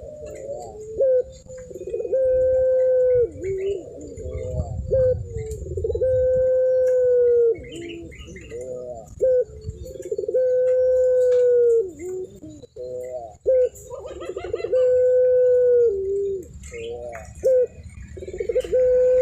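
Puter pelung, a long-cooing variety of domestic collared dove, calling repeatedly. Each call is a few short clipped notes and then one long, drawn-out coo held steady at one pitch, and it comes about every four seconds.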